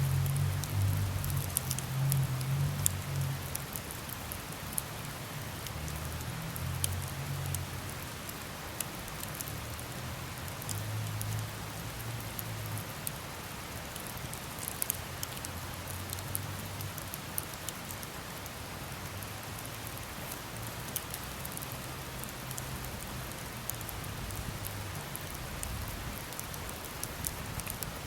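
Wood campfire burning: a steady hiss studded with many small, sharp crackles and pops, over an uneven low rumble that is strongest in the first few seconds.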